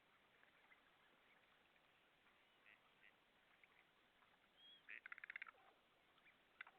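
Several birds calling faintly, short calls scattered throughout, with a quick rattling series of about a dozen notes about five seconds in.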